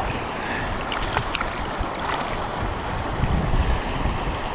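River water rushing steadily, with wind buffeting the microphone and a gust a little past the middle; a few light clicks about a second in.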